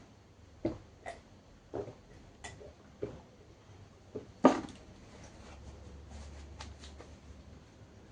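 Close-up eating sounds: a string of sharp, crunchy bites and chews, about seven of them in the first four and a half seconds, the loudest about four and a half seconds in, then fainter chewing clicks over a low hum.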